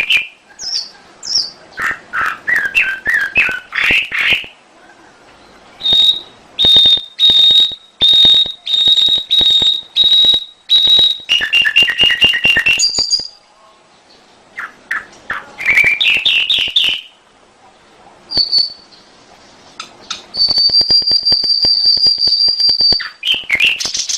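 Domestic canary singing: a varied song of rising chirps and quick phrases, a run of loud repeated notes at about two a second, and near the end a long fast trill held on one high pitch for a couple of seconds.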